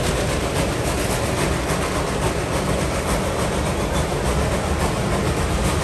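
Yosemite Mountain Sugar Pine Railroad train running: a steady rumble and rattle of wheels on the track.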